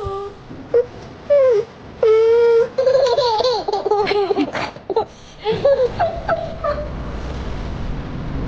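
A young child laughing and squealing in a run of high-pitched bursts, fading into a low rumbling noise about halfway through.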